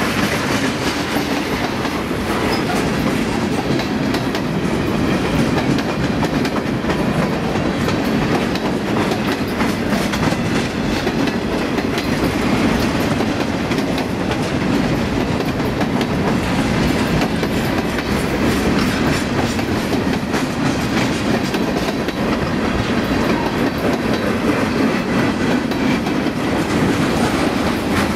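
Freight train's cars (tank cars and boxcars) rolling past: steel wheels clicking over rail joints over a steady rumble.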